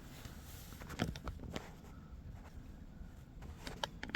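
Handling noise from a camera being repositioned on its mount: a few light clicks and knocks about a second in and a quick cluster of them near the end.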